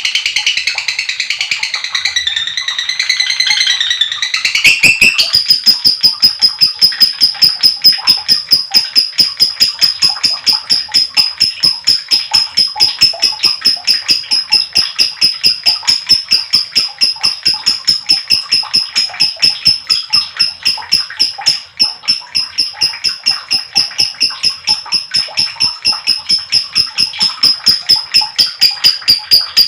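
Lovebird singing its long 'ngekek' call: a few seconds of varied chattering, then a long unbroken run of rapid, evenly repeated shrill notes at a steady high pitch.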